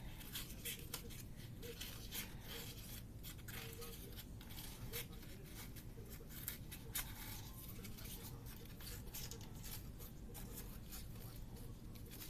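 Utility scissors snipping through paper egg carton, a run of short irregular cuts and crackles.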